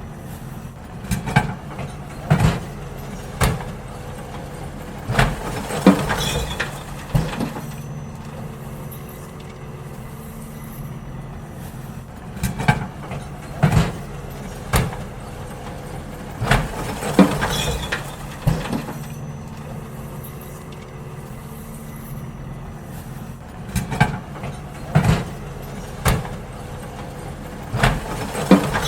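Garbage truck engine running steadily, with bursts of clanks and bangs every few seconds as wheelie bins are tipped and emptied into it.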